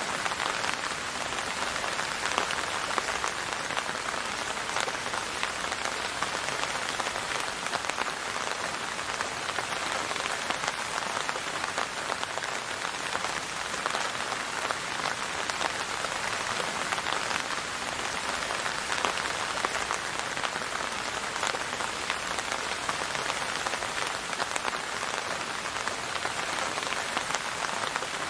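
Steady rain falling, an even hiss with many fine drop ticks spread through it.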